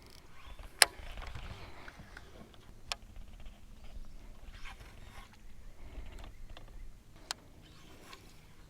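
Fishing tackle being handled while casting and reeling: three sharp clicks, the loudest about a second in, with a short rush of noise just after it and faint rustling between.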